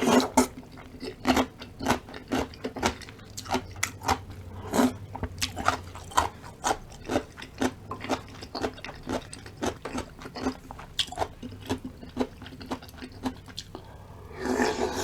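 Close-miked chewing and crunching of food in a mouth, a quick run of crisp, wet bites and chews with a longer, louder stretch of noise near the end.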